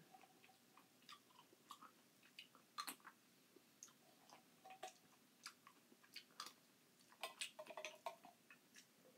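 Faint wet chewing and mouth smacks of someone eating crushed pineapple, with scattered small clicks of a plastic spoon in a metal can.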